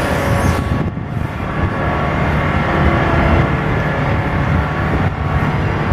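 A steady low droning hum with several sustained tones over a rumble, easing a little about a second in: the unexplained "strange sound in the sky", heard the same all over the area.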